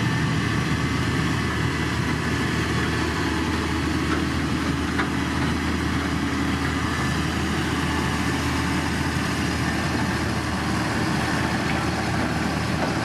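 Heavy road-construction machine's diesel engine running steadily, a continuous low rumble with no change in pace.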